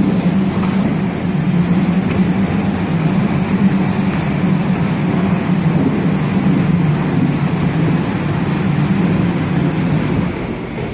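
Spindleless rotary veneer lathe running steadily with a strong, even motor hum, which drops off about ten seconds in.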